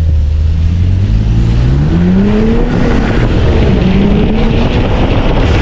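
Car engine under load, its pitch rising steadily for about a second and a half as it accelerates, then wavering up and down.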